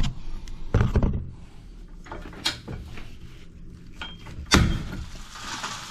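Cast iron soil pipe being cut with a chain snap cutter: a few knocks as the chain squeezes the tight pipe, then a loud sharp pop about four and a half seconds in as the cast iron cracks through.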